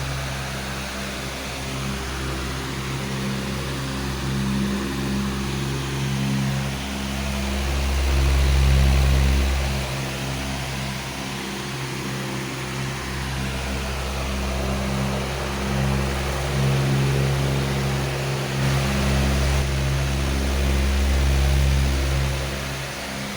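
A powerful electric fan running steadily: a motor hum with an even rush of air, and the deepest rumble swelling and fading every few seconds.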